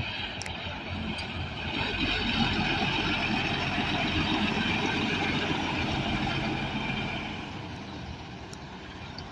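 A road vehicle passing, with engine and tyre noise swelling about two seconds in and fading after about seven seconds.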